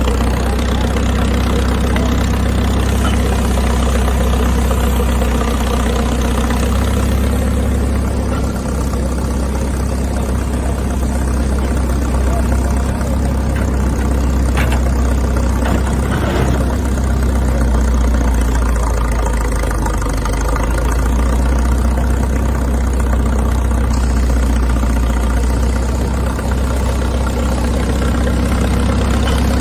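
A large engine on an old piece of heavy equipment idling steadily with a low, even rumble. A couple of faint clicks sound about halfway through.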